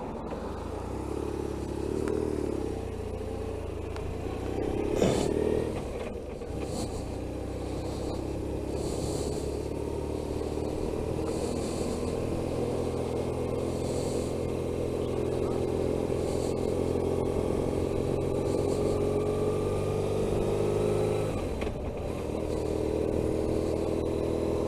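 Motorcycle engine running under way, its note rising slowly as the bike accelerates. It drops back briefly about three quarters of the way through, then runs on, with a rush of riding noise throughout.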